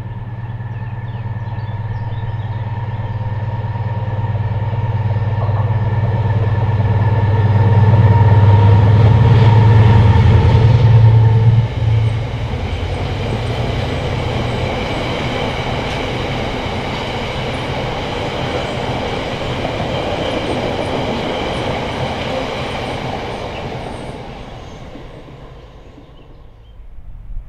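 Diesel freight locomotive approaching and passing close by with a deep engine drone, loudest about ten seconds in. After it, a long train of loaded bogie tank wagons rolls past with steady wheel-on-rail noise and a thin high squeal from the wheels on the curve, fading away near the end.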